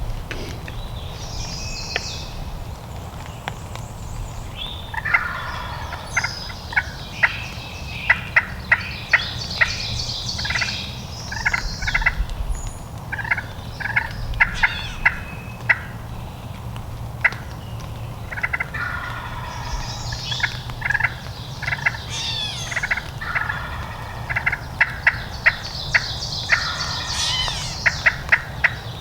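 Turkey calling: several bursts of gobbling and rapid series of sharp clicking notes, over a steady low background rumble.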